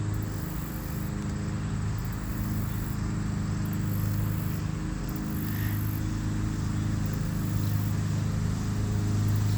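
A steady low engine-like hum with insects trilling high above it in repeating pulses of about a second each.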